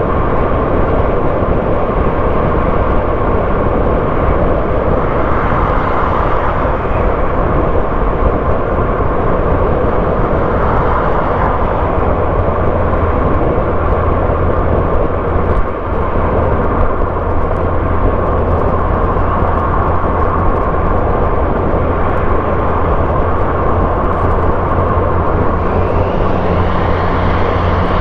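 A car driving along a road: steady engine hum and tyre-on-road noise, with a brief dip about halfway through and a faint rising whine near the end.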